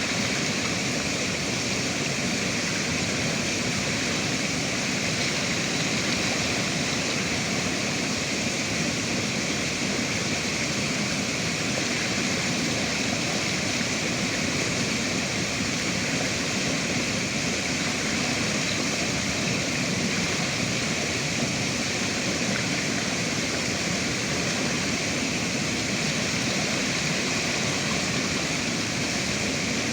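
River water rushing and splashing in a steady, unbroken wash of sound.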